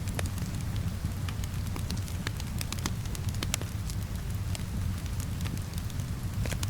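Fireplace crackling, with scattered sharp pops and snaps, over a steady low rumble and the even hiss of rain.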